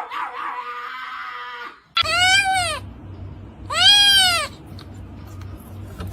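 Cat meowing twice: two drawn-out meows that rise and fall in pitch, about a second and a half apart. They follow a steady hissing noise that cuts off about two seconds in.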